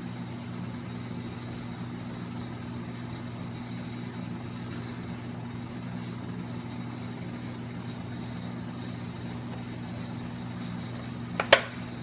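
Steady low mechanical hum with a faint high-pitched whine running under it. A single sharp click or knock comes near the end.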